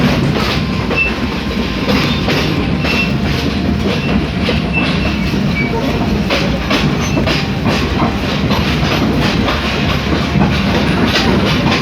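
Passenger train running on the rails: a steady rumble with the wheels clattering over the rail joints in irregular knocks, and a few short high squeaks.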